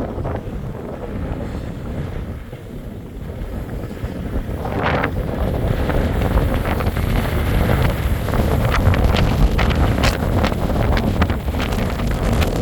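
Wind buffeting the microphone: a heavy, steady rumble that grows louder about four seconds in, with scattered crackles through the second half.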